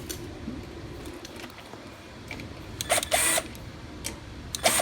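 Small power driver run in two short trigger bursts, about two seconds apart, spinning up and down as it backs out bolts on the mower engine.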